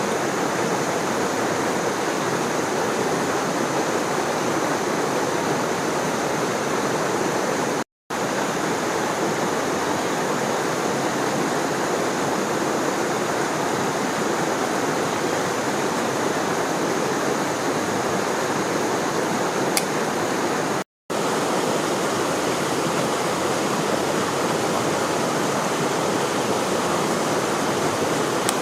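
Steady rushing of water from a waterfall pouring into a stream, an even, unbroken roar except for two momentary dropouts about a third of the way in and again near three quarters through.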